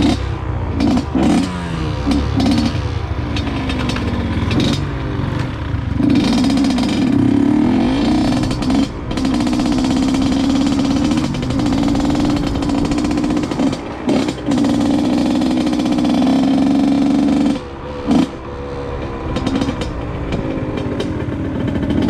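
Honda CR85R two-stroke dirt bike engine pulling away and revving up through the gears, its pitch climbing and dropping back at each shift. It then holds high revs for about ten seconds, the throttle is chopped, there is one short blip, and it carries on at lower, varying revs.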